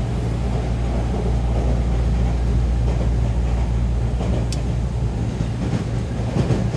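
Inside a moving electric commuter train: the steady low rumble of the running train, wheels on rails. A brief high squeal comes about four and a half seconds in, and a few short clatters near the end.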